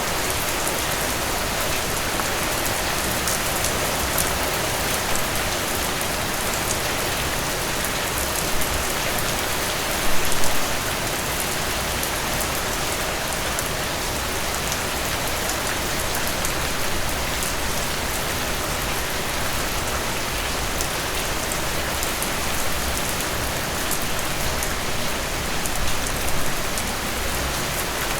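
Steady rain falling, an even hiss with many small drops pattering close by. A few brief louder gusts of heavier drops, the biggest about ten seconds in.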